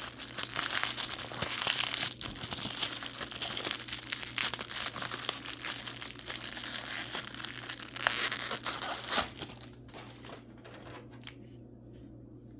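Packing wrap crinkling and tearing as a mineral specimen is unwrapped by hand, dying away near the end.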